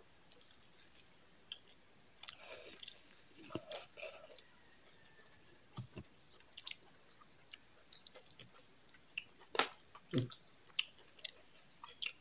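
Close-up eating sounds of two people eating rice and chicken curry by hand: chewing and wet mouth smacks. Scattered short sharp clicks run through it, the loudest a couple of seconds before the end.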